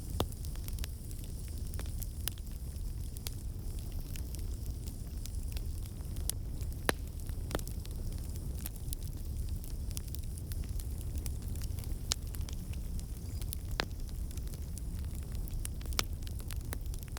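Fire in a fireplace crackling: a steady low rumble and soft hiss, with sharp pops and snaps at irregular intervals.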